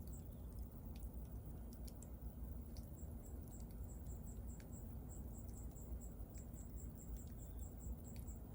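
Wood bonfire burning with a low rumble and scattered sharp crackles and pops. An insect chirps high and fast, falling into a steady series from about three seconds in.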